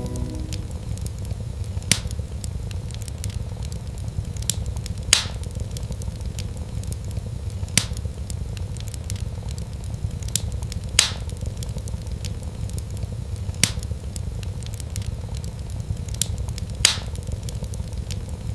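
Wood fire crackling: a steady low rumble of flames with sharp pops every two to three seconds and fainter ticks in between.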